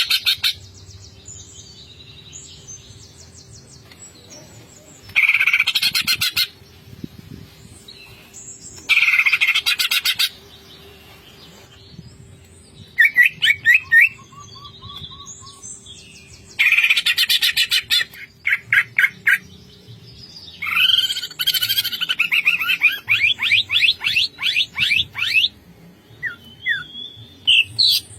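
Cucak ijo (green leafbird) singing in bursts of rapid rattling chatter, each about a second long and repeating every few seconds. Short whistled chirps come between them, and a longer, varied phrase arrives about two-thirds of the way through.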